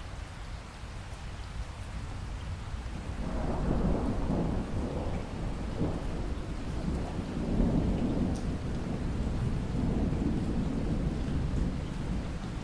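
Steady rain with a long roll of thunder that builds about three seconds in and keeps rumbling.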